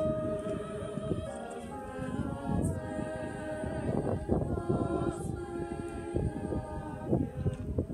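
Choir singing in harmony, a cappella, with sustained chords that change every second or so.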